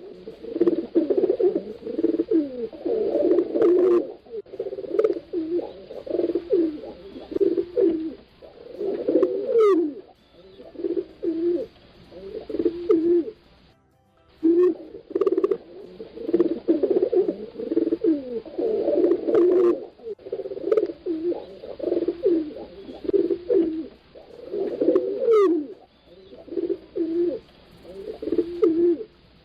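Several pigeons cooing at once, low overlapping coos one after another, with a brief silent break about halfway through.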